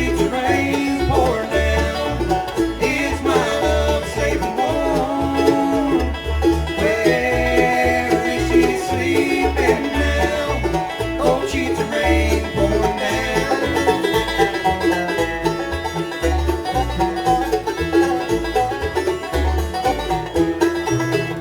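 Live bluegrass band playing an instrumental passage: banjo, guitar, mandolin, fiddle and bass, with sliding sustained notes over a steady bass pulse.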